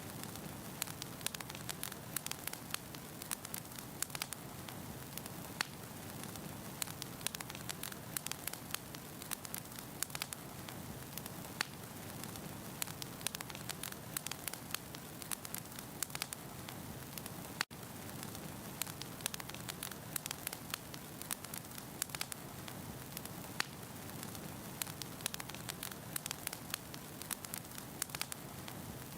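Firewood burning in a fireplace: a steady hiss of flames with frequent sharp crackles and pops. The sound briefly cuts out once, a little over halfway through.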